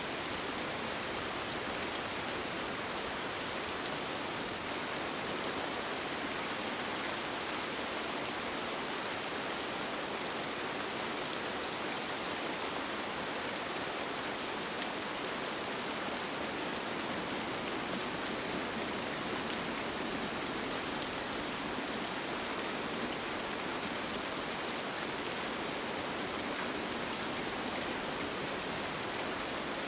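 Steady rain falling on a tent, an even hiss scattered with fine ticks of single drops.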